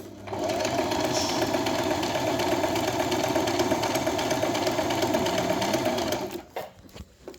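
Singer M3205 sewing machine running and stitching at a steady fast rate for about six seconds, then stopping. A couple of small clicks follow near the end.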